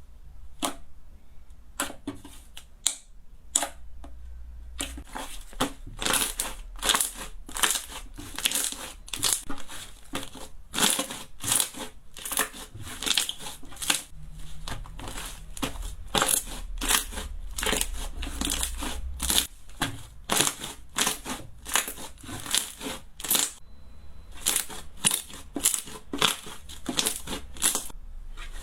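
Slime being squeezed and pressed by hand, giving off a string of crackling pops, sparse at first and then quick and dense from about five seconds in, with a short pause near the end.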